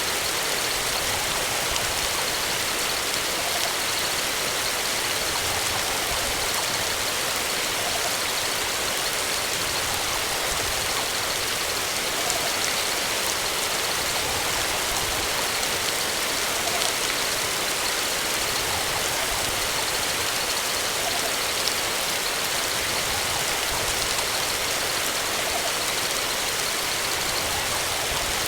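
Steady, even hiss like rain or rushing water, unchanging throughout.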